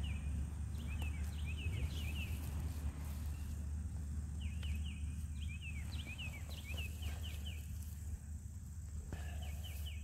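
A songbird calling in bursts of quick, short chirping notes, over a steady low rumble.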